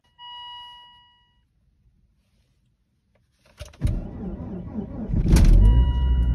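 A single chime sounds and fades. A few seconds later a 2001 Volvo V70 2.4T's turbocharged five-cylinder is started cold at about −25 °C: the starter cranks for about a second and a half, and then the engine catches with a loud flare to around 1,700 rpm and settles into a fast cold idle.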